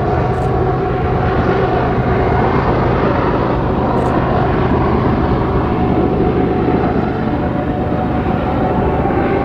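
Propeller airplane engine running steadily, a constant drone with a low hum and a steady higher tone.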